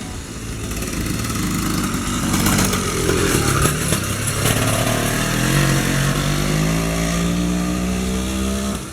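80cc two-stroke bicycle engine with an expansion-chamber exhaust running, its pitch climbing steadily through the second half as it accelerates.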